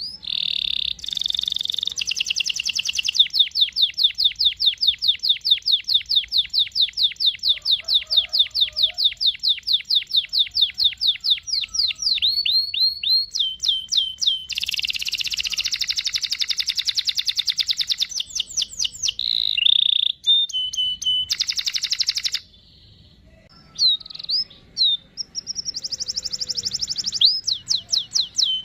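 Domestic canary singing long rolling trills: a run of fast repeated high notes lasting about ten seconds, then shorter, varied trills and chirps, with a brief pause about two-thirds of the way through.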